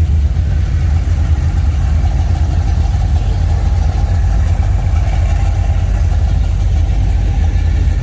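Classic car engine running at low speed as the car rolls in, a steady deep exhaust rumble.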